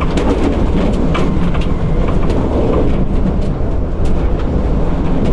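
Strong gusting wind buffeting an electric tricycle's camper box, heard from inside the cabin: a loud low rumble of wind, with frequent rattles and knocks from the shaking vehicle body.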